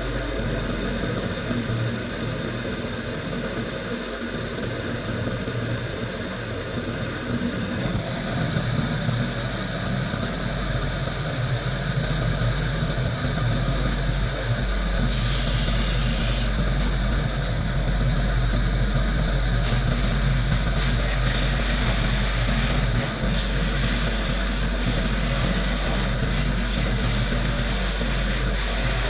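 Compressed-air gun hissing steadily, with a motor humming underneath. The pitch of the hiss shifts slightly about 8 and 17 seconds in.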